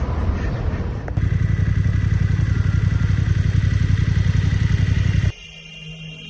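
BMW R1200 boxer-twin motorcycle engine running under way, with wind rush. The sound shifts abruptly about a second in and cuts off sharply about five seconds in.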